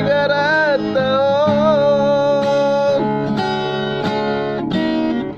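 A singer holds one long note with vibrato, about three seconds, over strummed acoustic guitar chords that carry on to the end.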